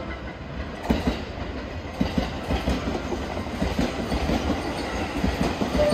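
Green-and-orange striped commuter electric train passing close by, its wheels clattering over rail joints and points with sharp clicks and knocks, louder from about a second in. Right at the end a horn begins to sound in two steady notes.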